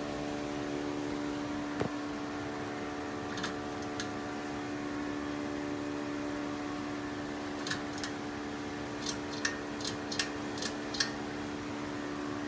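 Hunter Key Biscayne ceiling fan motor running with a steady hum; the owner says the fan has a bad capacitor. About ten sharp clicks are scattered over it, most of them in the second half.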